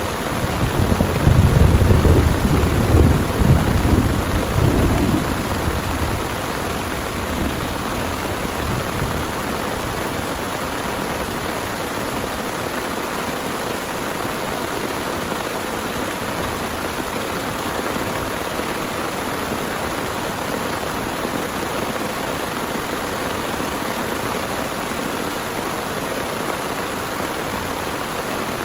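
Heavy rain falling steadily, with a loud rumble of thunder about a second in that fades away by about six seconds in.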